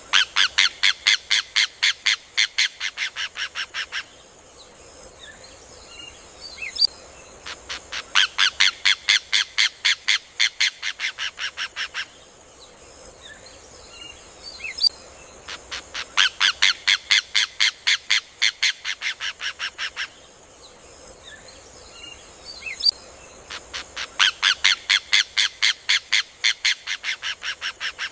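Rufous hornero (João de Barro) singing: four bouts of its loud, rapid ringing song, about five notes a second for some four seconds each, repeating every eight seconds. Each bout opens with a single note and fades toward its close. Faint chirps and a steady hiss lie between the bouts.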